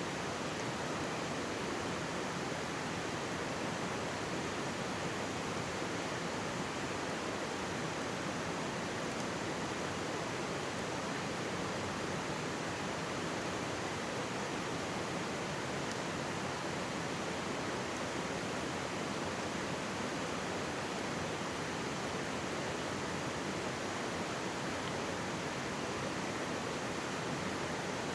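Mountain stream rushing past close by: a steady, even wash of flowing water.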